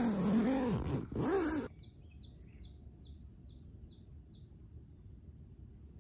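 Two drawn-out, wavering crow caws, the second shorter, followed by a small songbird singing a quick run of about eight high, falling chirps.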